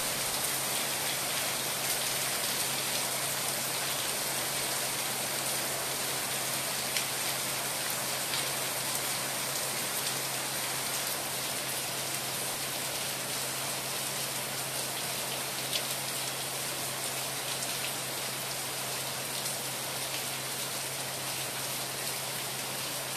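Steady rain falling, an even hiss of many drops with an occasional sharper tick of a single drop striking close by.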